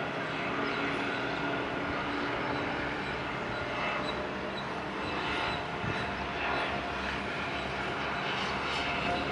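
Airbus A321 jet landing, a steady rush of engine and air noise.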